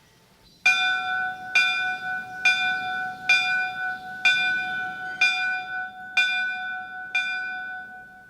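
A temple bell struck eight times at an even pace, a bit under a second apart, each strike the same note. The ring carries on between strikes and fades away after the last one.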